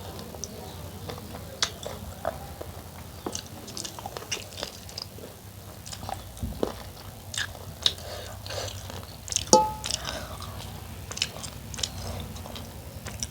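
Close-miked mouth sounds of a person eating: chewing and biting with many short wet clicks and smacks, over a steady low hum. About nine and a half seconds in, a brief ringing clink is the loudest sound.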